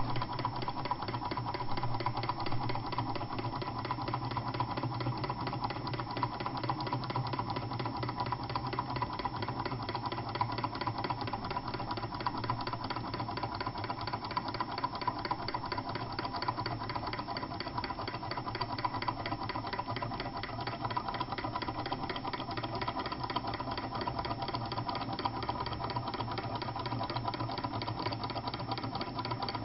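Two small model Stirling hot-air engines with lightweight wooden power pistons running steadily, a fast, even mechanical clatter with a faint steady tone.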